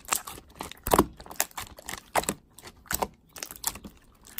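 A run of quick, irregular clicks and taps, like typing on a keyboard.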